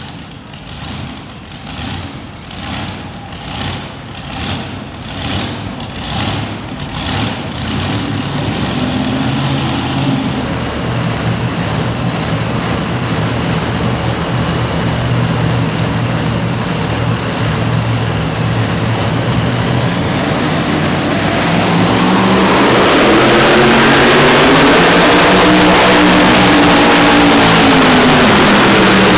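Super modified two-wheel-drive pulling truck's engine, first blipped in regular pulses, then held at high revs and growing louder, with a much louder rush of engine noise and wavering pitch from about three quarters of the way in as it pulls under load.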